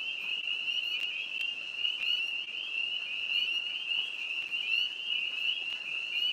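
A dense chorus of tree frogs calling all at once, a continuous high-pitched trilling that holds at one pitch without a break.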